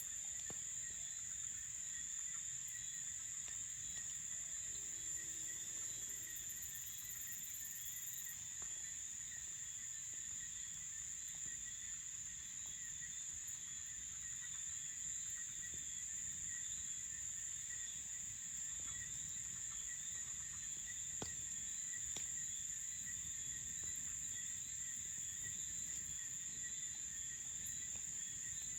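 Crickets chirring in a steady, high-pitched night chorus, over a low rumble, with a few faint clicks.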